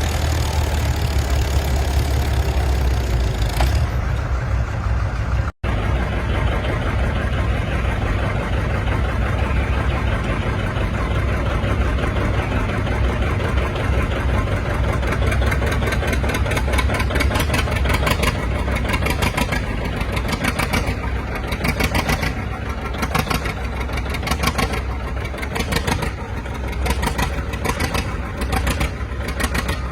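Antique farm tractor engine running steadily. The sound drops out completely for an instant about five and a half seconds in.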